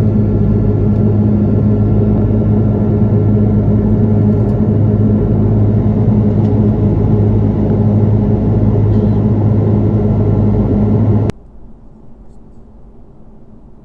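Airliner jet engines heard from inside the cabin: a loud, steady drone with a low hum. About eleven seconds in it cuts off abruptly to a much quieter, muffled cabin hum.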